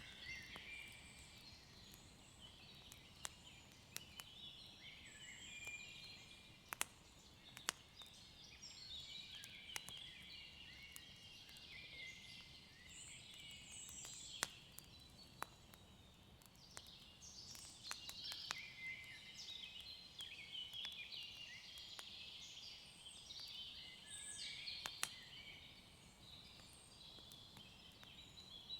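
Faint nature ambience: many small birds chirping and twittering, with sharp pops and crackles of a wood fire every few seconds.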